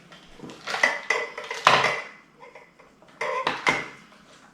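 Hard plastic parts of a Samsung Jet 75 stick vacuum's stand being handled and snapped together: a cluster of clicks and knocks about a second in, and a few more past three seconds.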